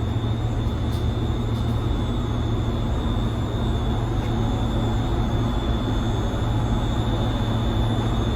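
Steady machinery drone: a strong low hum with a thin high-pitched whine above it, unchanging throughout.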